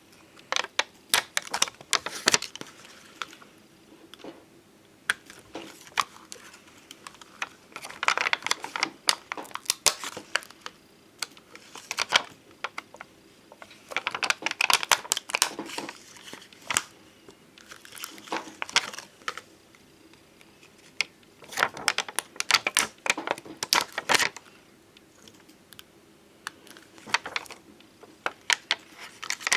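Bonbon drop stickers and ohajiki stickers handled close to the microphone: crinkling of the plastic sheets with bursts of sharp clicks and taps, coming in clusters with short pauses between them.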